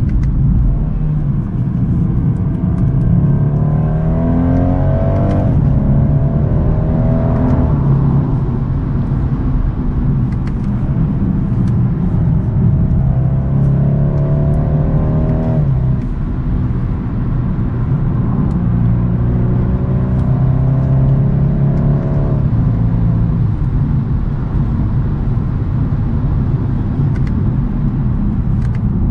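2022 BMW 230i's turbocharged four-cylinder engine and exhaust under acceleration: the note climbs in pitch and drops sharply at each automatic upshift, about four times.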